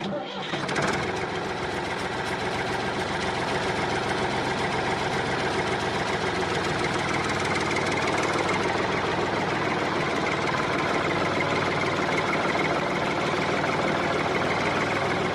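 Small motor of a DIY model machine running steadily with a fast, even rattle, starting suddenly and settling to a constant level within the first few seconds.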